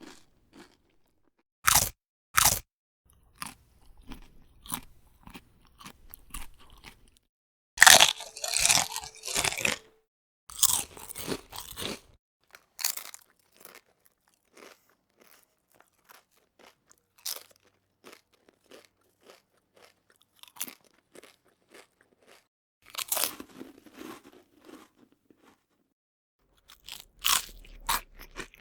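Crisp dry food, such as crisps or crackers, bitten and chewed close to the microphone: separate sharp crunches with quieter crackling chews between them, and a loud, dense bout of crunching about eight seconds in.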